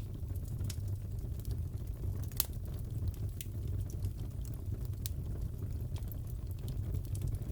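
Wood fire crackling in a fireplace: a steady low rumble of the flames with scattered sharp pops and snaps, the loudest about two and a half seconds in.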